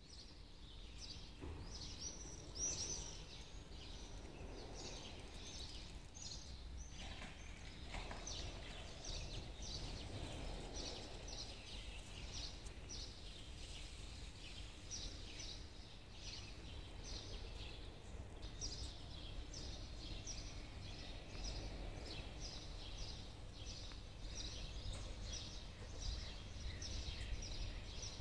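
A small bird chirping over and over, short high notes about twice a second, over a steady low outdoor rumble.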